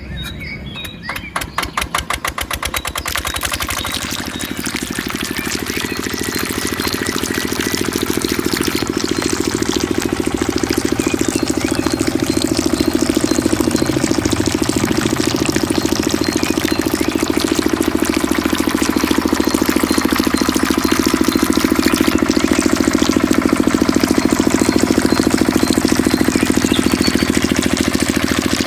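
Mini diesel engine starting, its firing quickening over the first few seconds before it settles into a steady run. It grows a little louder until about ten seconds in, then holds steady.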